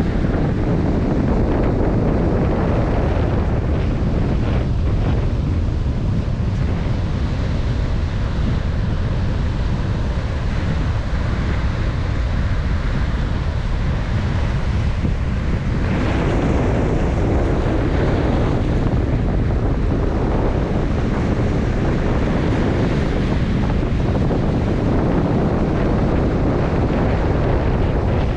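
Strong wind buffeting the microphone, with Baltic Sea surf breaking underneath.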